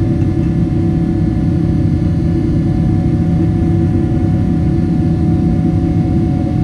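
Boeing 777-300 jet engines and airflow during takeoff, heard inside the passenger cabin: a loud, steady low rumble with a faint constant whine above it.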